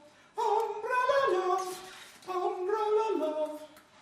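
A voice singing without accompaniment: two sung phrases, the first starting about half a second in, the second about two seconds in.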